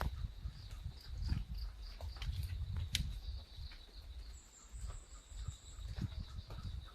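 Insects trilling: a steady, high, pulsing chirr, joined by a second, higher buzz for about a second and a half in the middle. Scattered light ticks of raindrops hit the umbrella over an uneven low rumble.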